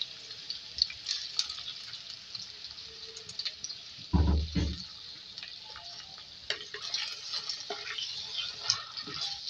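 Chicken gizzards sizzling steadily in hot oil with garlic in a clay karahi, with scattered clicks and scrapes from a wooden spatula stirring them in the second half. About four seconds in there is one short, louder, low-pitched sound.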